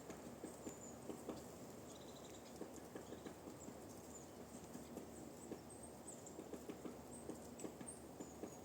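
Woodpecker tapping on a tree trunk in faint, irregular single pecks, a few a second, with faint high bird chirps.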